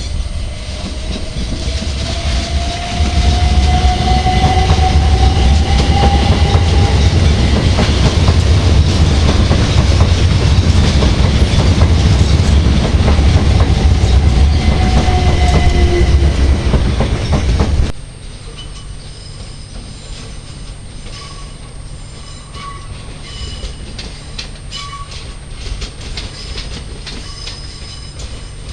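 A British Rail Class 387 electric multiple unit accelerates close past, its traction motors whining and rising in pitch over a loud rumble of wheels on rail. About 18 s in, the sound cuts abruptly to a quieter train further off, its wheels clicking over rail joints and pointwork with short faint squeals.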